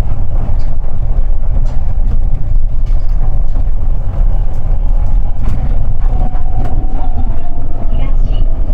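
Osaka New Tram 200 series rubber-tyred automated train running, with a loud, steady low rumble from the running gear. From about six seconds in, a faint steady whine from its Toyo Denki IGBT-VVVF inverter rises above the rumble.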